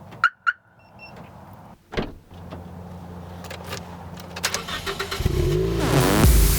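Clicks and a short beep, then a thump, after which a car engine starts and runs steadily. Electronic music comes up over it near the end.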